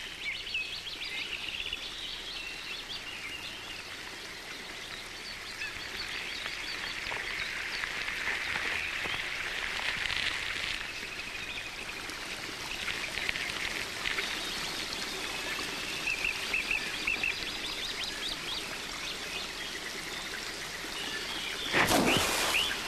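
Many birds calling and chirping over a steady background hiss, with a brief loud rushing burst about a second before the end.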